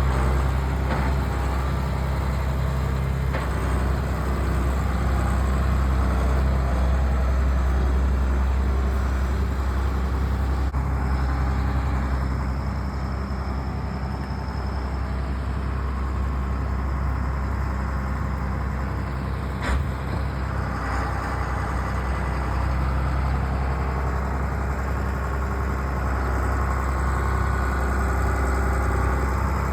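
Farm tractor engine running steadily with a low hum, and a single sharp click about twenty seconds in.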